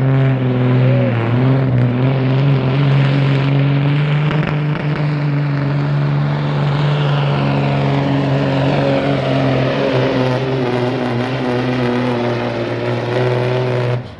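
Diesel semi truck engine running hard under load as it pulls a weight sled, holding a steady, loud pitch with only small shifts, then cutting off suddenly near the end.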